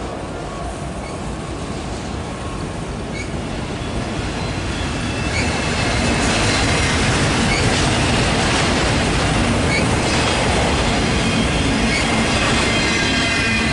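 Freight cars of a passing Norfolk Southern train, autoracks followed by intermodal cars, rolling by: a steady rumble of wheels on rail that grows louder about five seconds in, with faint wheel squeal and occasional clicks.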